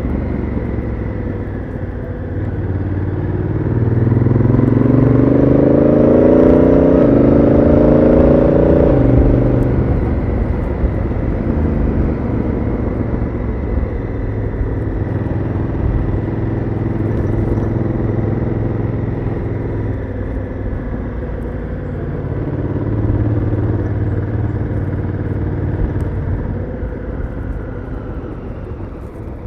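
Honda Africa Twin CRF1000L's 998 cc parallel-twin engine through its stock exhaust, ridden on the road. About four seconds in it pulls hard, its pitch rising with a gear change midway. After that it cruises more quietly, with lighter throttle pulls later on.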